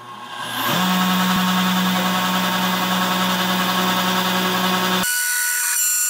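Taig CNC mill spindle coming up to speed over the first second and running steadily as its end mill faces a block of aluminum, a steady low hum under a wide hiss. About five seconds in the sound changes abruptly to a higher steady whine of several tones as the mill cuts on.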